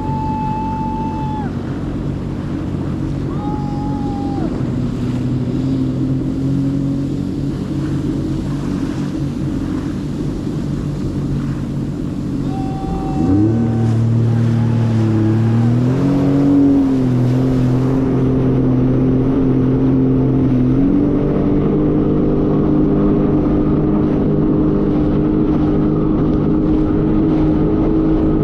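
Jet ski engine running under way over open water. Its pitch shifts abruptly about halfway through as the throttle changes, and it steps up again a few seconds later.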